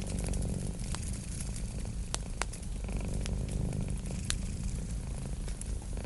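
A domestic cat purring steadily, a continuous low rumble, with a wood fire crackling and giving off scattered sharp pops.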